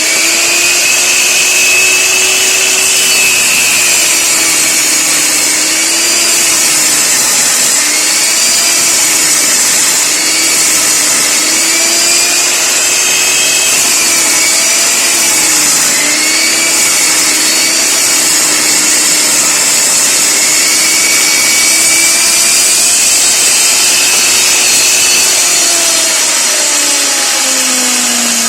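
Electric power tool working wood: the motor runs without a break, its pitch dipping and recovering again and again as it takes load.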